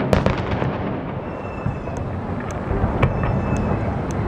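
Aerial fireworks bursting: several sharp bangs over a continuous low rumble of more distant bursts, with the loudest bangs just after the start and about three seconds in.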